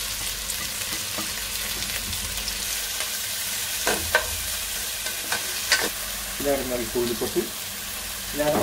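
Chopped onions, leeks, garlic, green chillies and curry leaves sizzling in hot oil in an aluminium pan while being stirred with a wooden spatula. A few sharp knocks of the spatula against the pan come around the middle.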